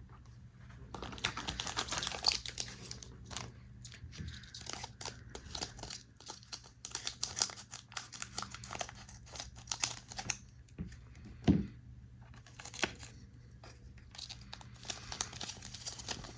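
Foil trading card booster pack crinkling and being torn open, with the cards inside being handled; irregular crackling and clicks, with one sharper snap about eleven seconds in.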